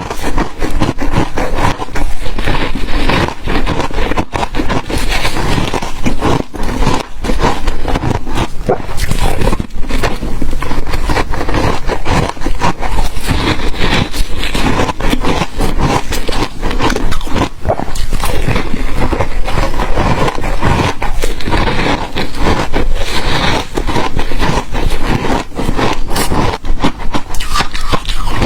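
Close-miked crunching of hard ice being bitten and chewed, a dense, unbroken run of loud crackling crunches, with swallowing among them.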